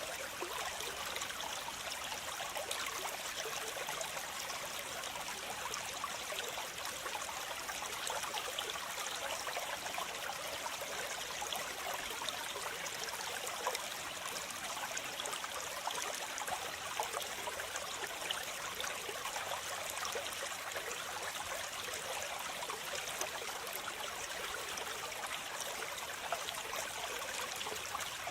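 Waterfall: steady rushing and splashing of falling water, with no change throughout.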